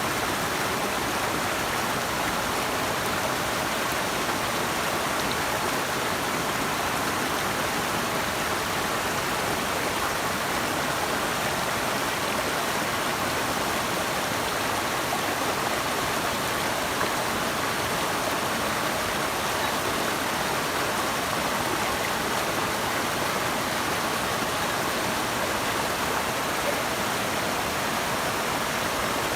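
Rushing water, a steady, unbroken flow with no change in level.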